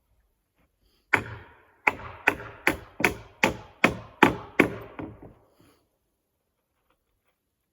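Hammer driving into wood: about ten quick, ringing blows, roughly two or three a second, that stop about five seconds in.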